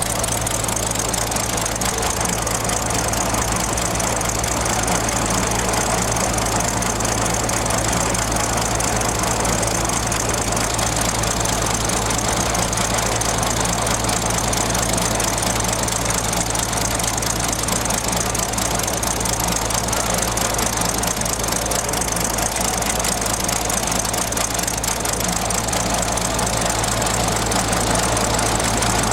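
Small scale-model internal-combustion engine running steadily at a constant speed.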